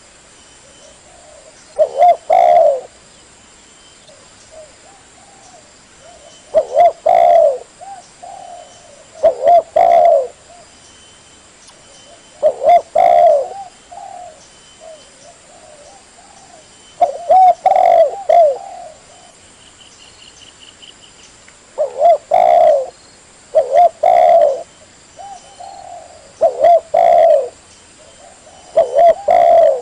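Spotted dove cooing: short phrases of a few low coo notes, repeated every two to five seconds.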